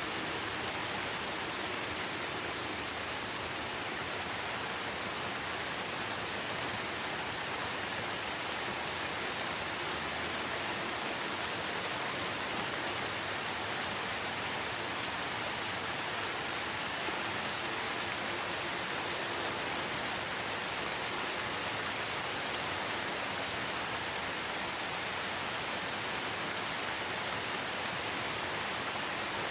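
Steady rainfall in a rainforest, an even rushing hiss of rain on leaves and surfaces, with an occasional single drop ticking through.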